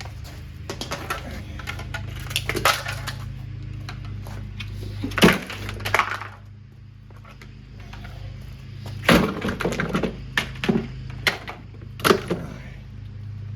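Plastic parts of a portable washing machine cracking and breaking as it is pried and smashed apart: sharp cracks and knocks, one loud one about five seconds in and a run of them in the last few seconds, over a steady low hum.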